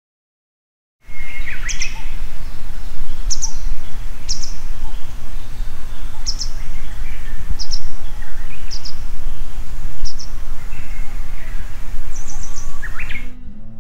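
Wild birds calling over a heavy low rumble of wind on the microphone. Short high chirps come every second or so, with a few lower calls among them. The sound cuts in suddenly about a second in and stops suddenly just before the end.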